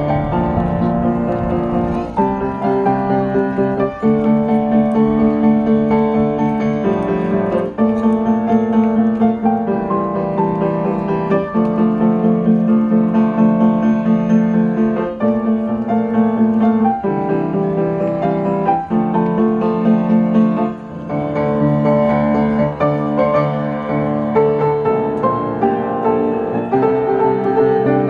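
Piano playing a slow ballad, with chords that change about every one to two seconds.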